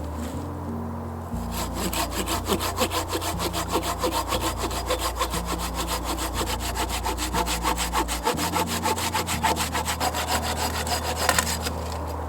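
Hand saw cutting through wood in fast, even back-and-forth strokes. It starts about a second and a half in and stops shortly before the end.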